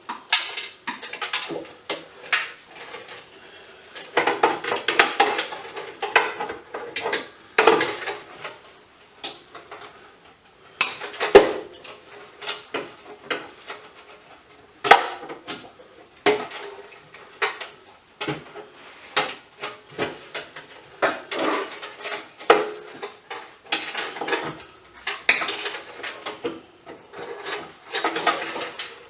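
Irregular metallic clanks, clinks and rattles as scrap metal parts and tools are handled while an emergency light fixture is taken apart, some strikes ringing briefly.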